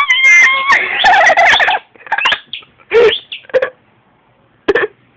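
Dog whining in high-pitched, wavering cries: a long run of whines for about two seconds, then a few short yelping whines.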